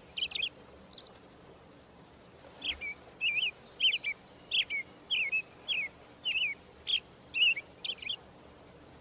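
A bird calling: a few sharp, higher notes, then after a pause of about a second and a half a run of short, slurred chirps repeated about twice a second.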